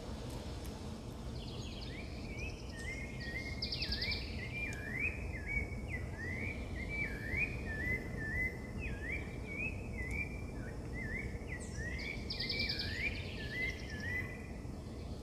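Birds singing: a long run of short, quick whistled notes that sweep up and down, starting about two seconds in and stopping shortly before the end, with a buzzier, higher call twice. A steady low rumble of outdoor noise runs underneath.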